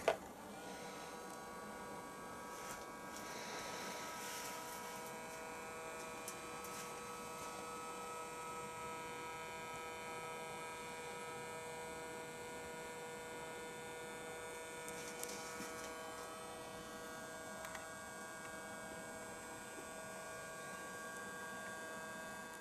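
MTH RailKing model Pennsylvania 6-8-6 steam turbine locomotive humming steadily, several fixed tones held without change, with a few faint ticks.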